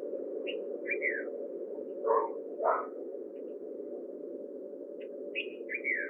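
Birds calling: short high chirps scattered throughout, and two louder, harsher calls a little over two seconds in, over a steady low background hum.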